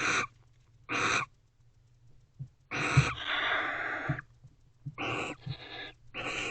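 A pair of barn owls in a nest box calling to each other. There are five short, raspy twittering calls about a second apart, with a longer hiss just under halfway through and a brief hiss later.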